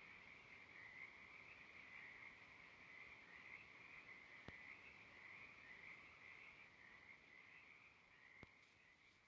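Faint, steady chorus of small calling animals, with two light clicks, one about halfway through and one near the end.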